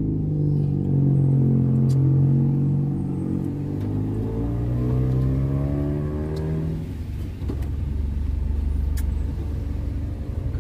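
Car engine heard from inside the cabin, pulling away with its pitch rising slowly, then settling to a lower, steady rumble about seven seconds in.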